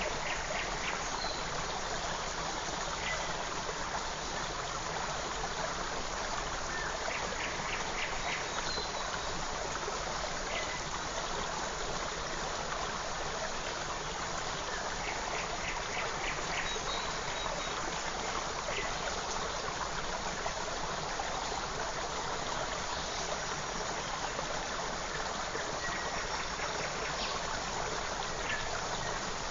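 Forest creek flowing steadily, a constant rushing of water, with a songbird calling now and then above it in short chirps and quick trills.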